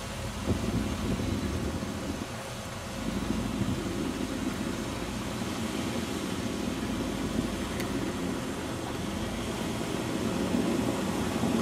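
Ford Focus sedan's engine running steadily at low revs as the car works its way out of a spot where it is boxed in, stuck in snow.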